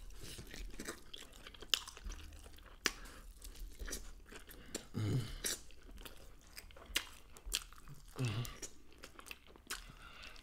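Close-miked chewing and biting into chicken wings: irregular crunches and wet mouth sounds as meat is torn from the bone. There are two short vocal sounds through a full mouth, about five seconds in and again about eight seconds in.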